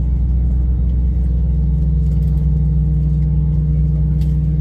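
Airbus A321 jet engines heard from inside the passenger cabin: a steady, loud drone with a deep rumble and a few held hum tones.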